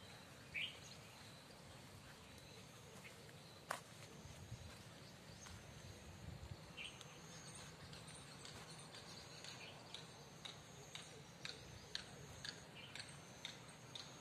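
Quiet outdoor ambience with a few faint, short bird chirps scattered through it and one sharp click about four seconds in.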